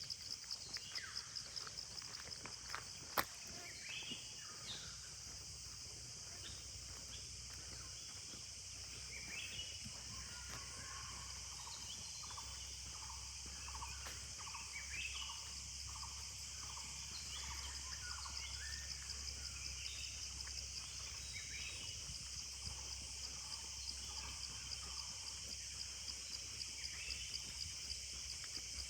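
Forest ambience: a steady, high, fast-pulsing insect chorus with birds chirping and calling over it, and a low rumble underneath. A single sharp click about three seconds in.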